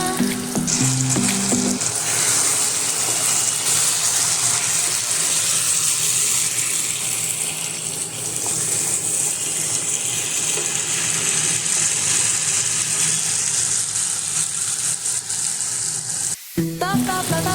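Food frying and sizzling in a pan, a steady hiss throughout. Background music fades out about two seconds in and comes back after a sudden cut near the end.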